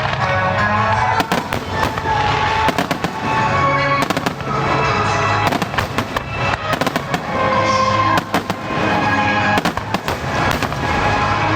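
Starmine fireworks barrage: many shells bursting in quick succession with crackling, over music played with the show.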